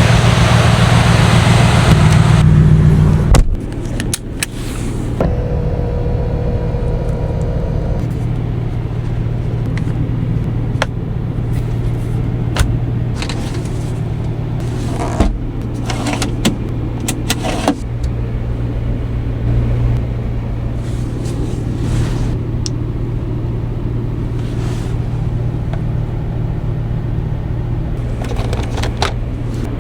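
Aston Martin DBX S's 4.0-litre twin-turbo V8 running loud for about three seconds, then dropping suddenly to a steady idle, with scattered sharp clicks over it.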